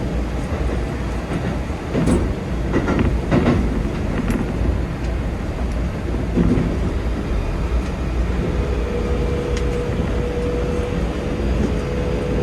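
Keikyu 2100 series train running at speed, heard from the driver's cab: a steady low rumble with scattered clicks and knocks from the track. About eight seconds in, a thin steady whine joins and rises slightly in pitch.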